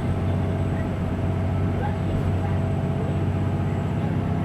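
Hino Blue Ribbon City Hybrid bus running under way, heard inside the passenger cabin: a steady engine and drivetrain hum with a faint constant tone above it, holding level.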